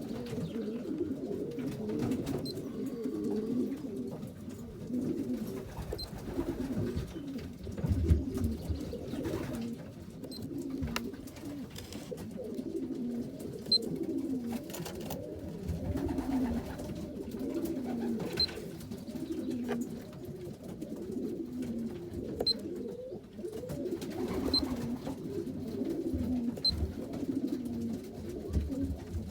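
Racing pigeons in a loft, several cooing at once without a break, with occasional short knocks among them.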